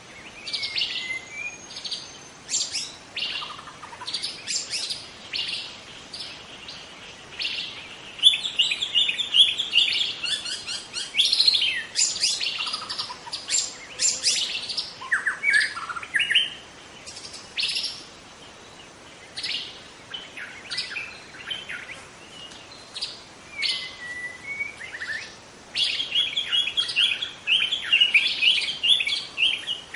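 Young wild white-rumped shama singing a varied song of sharp chirps and gliding whistles, breaking into fast, dense trills about eight seconds in and again near the end.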